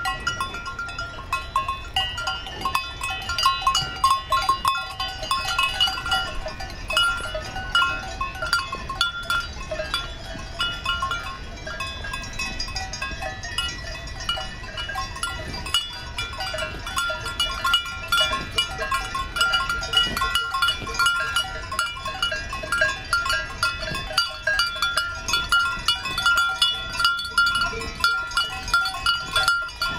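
Many cowbells on a herd of cows clanking continuously and irregularly, several bells of different pitches overlapping.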